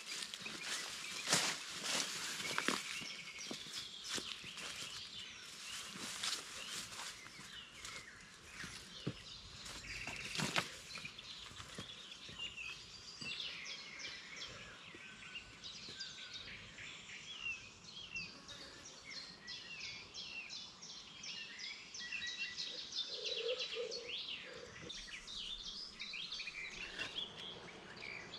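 Several wild birds singing and chirping in riverside woodland, many short, overlapping chirps and trills, with a few sharp clicks in the first ten seconds.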